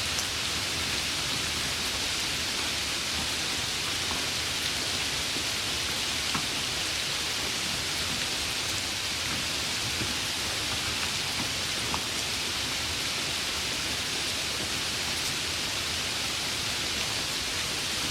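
Heavy rain falling steadily, a dense even hiss with a few sharper drop ticks.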